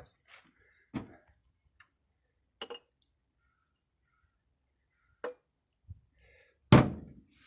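A handful of separate light clicks and clinks with quiet between them, and a louder knock near the end: hand work around the car's engine between cranking attempts.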